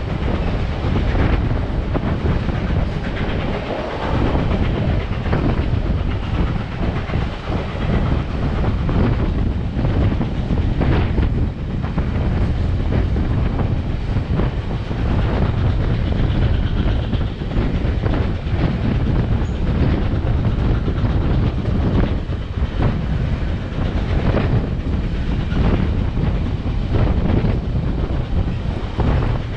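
Passenger train coach rolling along the track at speed: a steady rumble of wheels on rails with frequent irregular clicks and clatter.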